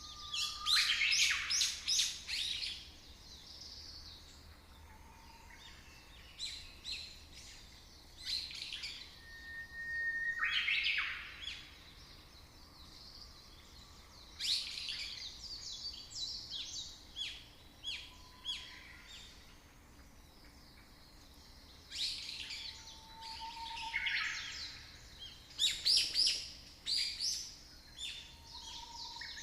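Birds chirping and singing in repeated bursts of quick high notes, with a few short whistles in between, over a faint steady background hiss.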